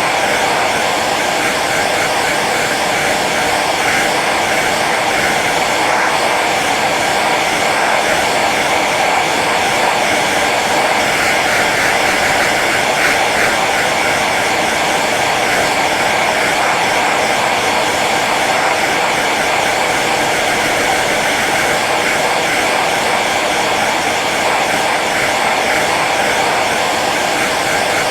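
Hair dryer running steadily on its low setting: a constant rush of blown air over the whine of its small fan motor.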